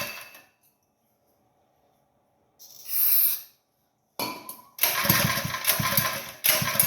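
Small gasoline engine of a trash pump being cranked and sputtering without catching. It dies away at the start, a short hiss comes about three seconds in, and from about four seconds on it is cranked again in repeated pulses.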